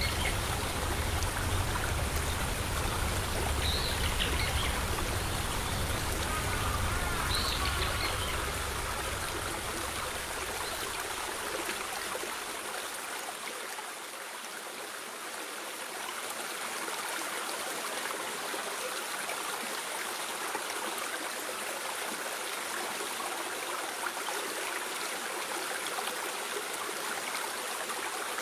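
Steady rush of flowing stream water, with a low rumble underneath that fades out about twelve seconds in.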